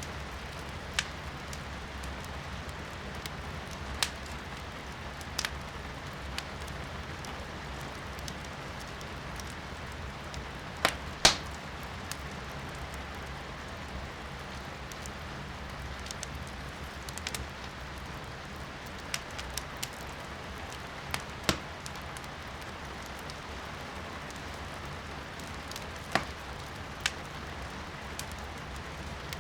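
Firewood burning in a fireplace, crackling with sharp, irregular pops, the loudest a double pop about eleven seconds in, over the steady hiss of rain heard from inside the room.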